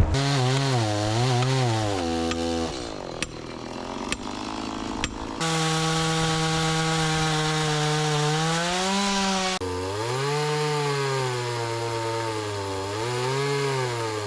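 Stihl chainsaw cutting into an oak round, its engine pitch sagging and recovering again and again as the chain bites under load. It runs quieter for a few seconds, about three seconds in.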